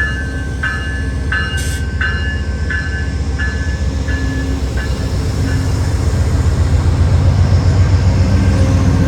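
Railway level-crossing bell ringing about one and a half strikes a second, fading out after about five seconds, over the low rumble of a passing train that grows louder near the end.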